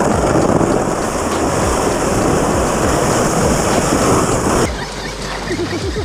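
Loud steady rushing noise over background music with a low, regular beat; the rushing cuts off suddenly about three-quarters of the way in.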